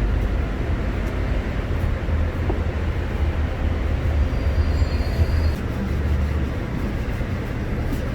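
Steady low rumble of city traffic noise. A faint high-pitched squeal comes in about four seconds in and lasts a second or so.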